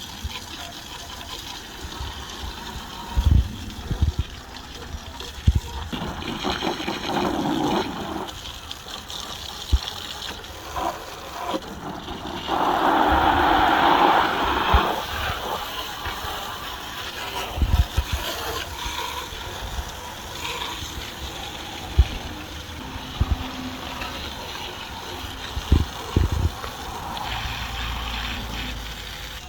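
Water spraying and splashing onto the mower, in spells that come and go, loudest for a couple of seconds about halfway through, with scattered short knocks.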